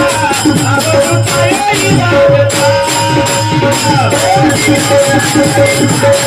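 Devotional panchapadi bhajan: a singer's voice singing high and long-held phrases over a steady drone note, with jingling percussion and a low drum keeping an even beat.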